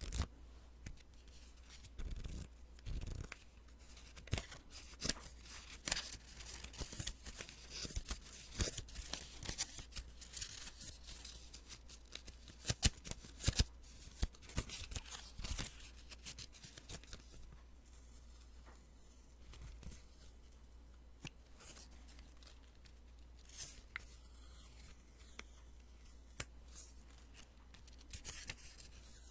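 Post-it sticky notes being peeled off and handled close to the microphone: a run of crisp paper crackles and sharp ticks, busiest in the first half and thinning out about halfway through.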